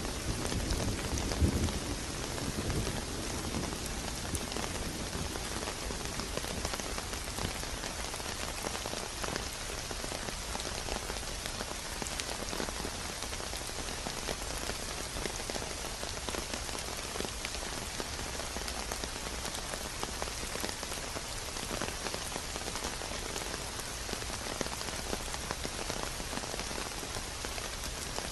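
Steady rain falling on a surface, an even hiss of many drops. A low rumble in the first couple of seconds fades away.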